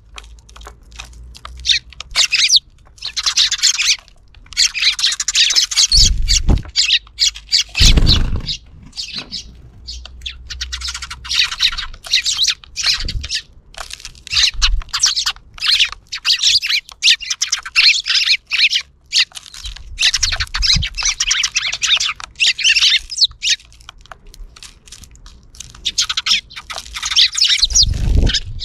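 A flock of sparrows chirping and chattering busily, in dense runs of quick chirps with short pauses. A few short low thumps are heard among the chirps.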